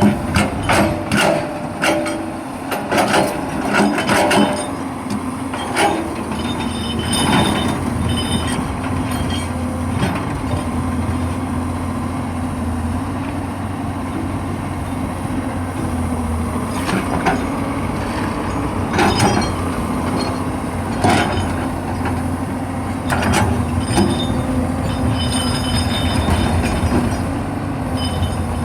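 Excavator's diesel engine running steadily, with repeated sharp knocks and clanks from the machine at work, thickest in the first few seconds and scattered after.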